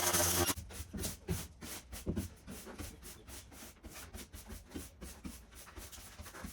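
Quick, irregular scratching and rubbing strokes, several a second, after a louder sound cuts off about half a second in.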